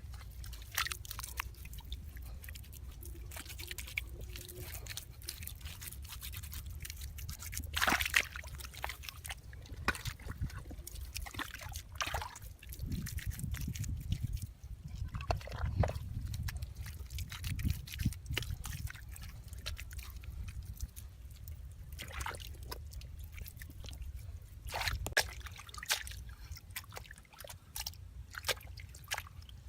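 Water sloshing and dripping in irregular small splashes, the loudest about a quarter of the way in and again near the end, over a steady low rumble.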